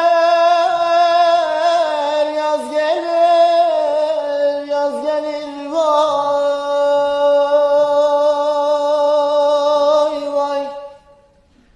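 A solo voice singing a slow melody in long, held notes with wavering ornaments; it stops about a second before the end.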